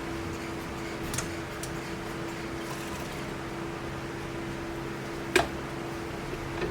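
A steady hum with a few light clicks, and one sharper click about five seconds in.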